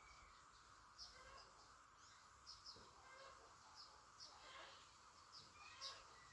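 Faint short bird chirps, a few every second, over a steady background hiss.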